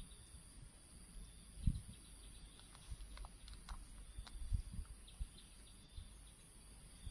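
Quiet outdoor ambience: a steady high-pitched insect drone with a few short bird chirps near the middle, and scattered low thumps, the strongest about a second and a half in and again past four seconds.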